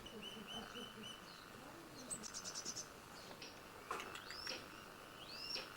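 Birds chirping and singing, faint: a quick run of short notes at the start, a fast high trill about two seconds in, and a few rising-and-falling whistled notes in the second half.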